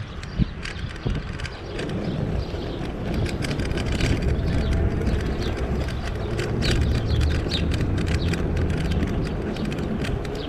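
Riding an e-bike: steady wind and road rumble that grows louder about two seconds in, with many light clicks and rattles throughout.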